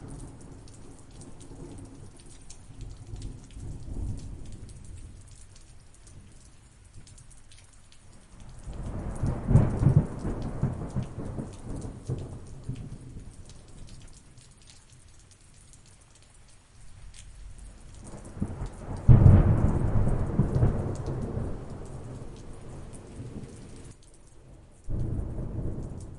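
Thunderstorm: steady rain pattering with rolling thunder. Two big, long thunder rolls, about 9 s and 19 s in, the second starting suddenly, and a shorter rumble near the end.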